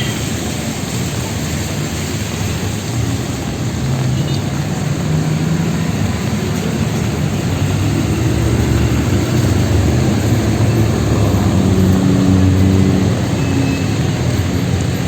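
City street traffic in the rain: vehicle engines running and passing over a steady hiss of rain and wet road, with a heavier engine drone building through the middle and loudest a little before the end.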